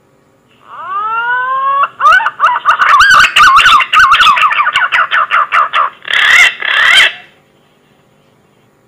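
Green pigeon (punai) call played as a hunting lure. It opens with a few rising whistles, then runs into a fast series of wavering whistled notes, and ends with two louder notes near the end, over a faint hiss.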